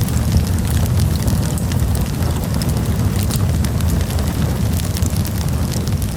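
Campfire burning, a steady low rumble of the flames with frequent small, sharp crackles and pops of burning wood.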